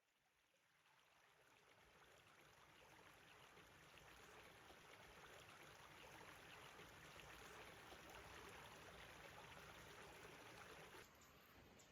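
Mountain stream flowing: a steady rush of water that fades in over the first few seconds and drops away sharply near the end.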